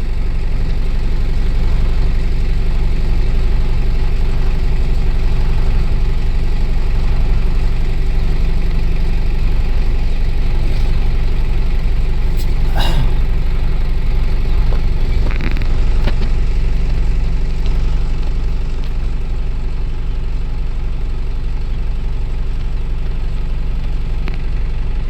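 Heavy diesel engine running steadily with a constant low rumble, from the tipper truck or the machinery loading sand into it.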